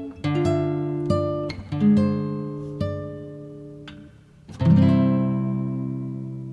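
Background music of plucked acoustic-guitar chords. A new chord is struck about every second, each ringing and fading, and a longer chord rings on through the second half.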